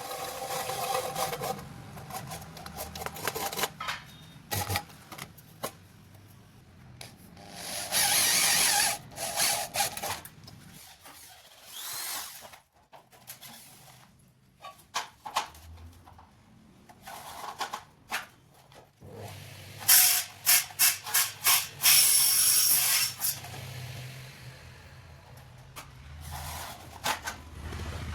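Work on aluminium partition sections while they are being joined: a power tool runs in a few short bursts of about a second each, among many sharp clicks and knocks of metal parts being handled and fitted.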